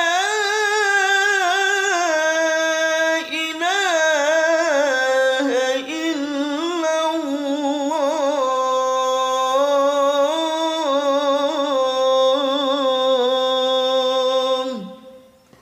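A male muezzin singing the closing "lā ilāha illā-llāh" of the adhan as one long melismatic phrase in a single voice. The phrase has many ornamented runs, settles on a long held note and ends with a drop in pitch about fifteen seconds in.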